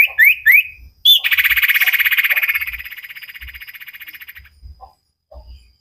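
A songbird singing: three quick rising chirps, then a long rapid trill starting about a second in that slowly fades away.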